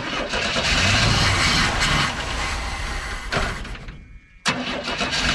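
Starter cranking the 1982 Chevy Scottsdale's 4.1-litre straight-six in a fast, even rhythm for about three seconds without the engine catching, then cranking again near the end. The engine has not run in years and needs starting fluid.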